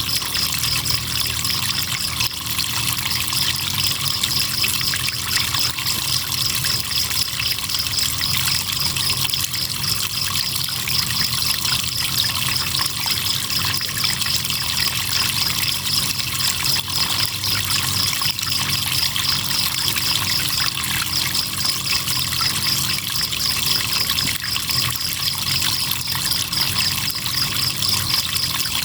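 Crickets trilling in a steady, rapidly pulsing high chorus over the continuous trickle and wash of flowing river water.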